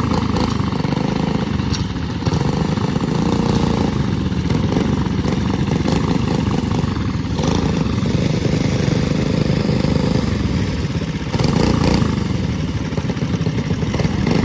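Small single-cylinder minibike engines running hard through a short drag race.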